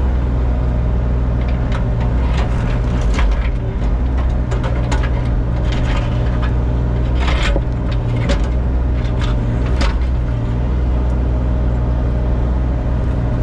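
Diesel engine of a mini excavator running steadily, with scattered sharp cracks and scrapes, the loudest about seven and eight seconds in, as old driveway paving is broken and pried up.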